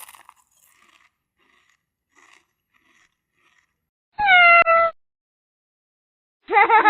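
A cat meows once, loudly, about four seconds in: a single call under a second long that falls in pitch. Faint soft ticks come before it.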